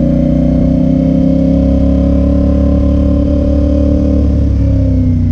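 Motorcycle engine running steadily while riding, its pitch slowly falling as the bike eases off, with a shift in pitch about four and a half seconds in.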